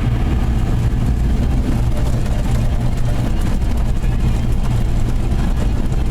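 Automatic car wash machinery running, heard from inside the car's cabin: a loud, steady low rumble with an even rushing noise over it.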